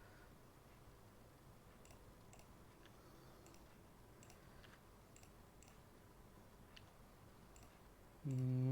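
Faint, scattered clicks from a computer mouse and keyboard. Near the end, a short, louder hum from a man's voice, held for under a second.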